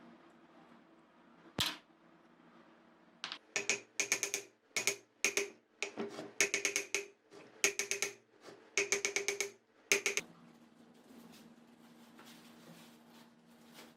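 Single click, then bursts of rapid metallic clicking and tapping with a slight ring, from about three seconds in until about ten seconds in.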